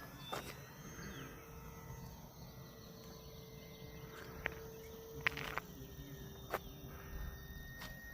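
Faint, steady hum of a distant electric RC airplane's motor and propeller (an FMS Cessna 182 model), dropping a little in pitch a bit past halfway. Insects chirp steadily behind it, and there are a few sharp clicks.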